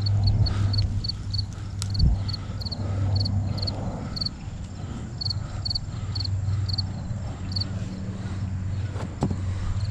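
Short high chirps repeating about twice a second, often in pairs and thinning out later, typical of a cricket, over a steady low hum.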